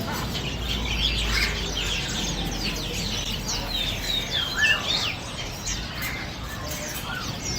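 Many caged birds chirping and calling over one another, a dense chatter of short, sharp notes that slide quickly in pitch.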